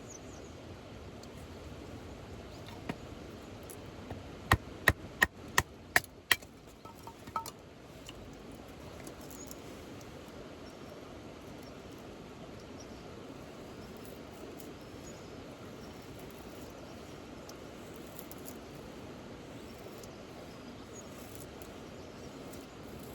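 Steady rain noise. About four and a half seconds in it is broken by a quick run of six sharp knocks, about three a second, followed by a few soft clicks.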